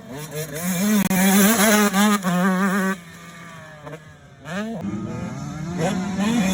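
Motocross bike engine revving hard, its pitch climbing and falling with the throttle. It drops off sharply about three seconds in, then revs up again and keeps running.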